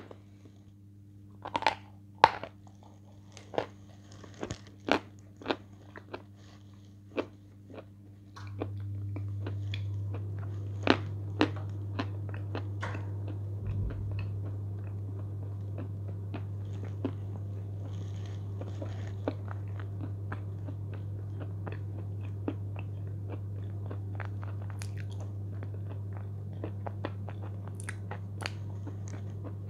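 Close-up biting and crunching of a hard white edible clay bar, sharp crunches at irregular intervals throughout. About eight seconds in, a steady low hum starts and continues under the chewing.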